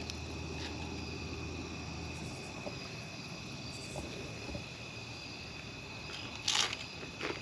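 Crickets and other insects chirping steadily in an evening chorus. Two short bursts of noise come near the end.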